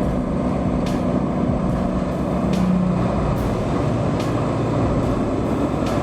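Morbark 50/48X whole-tree chipper running steadily, a dense, loud machine noise with a low steady tone that drops out about halfway through.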